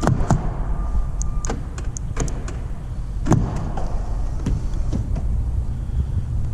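Door of a Chevrolet Tahoe being handled: a string of clicks and knocks, with a heavier thud at the start and another about three seconds in, over a steady low rumble.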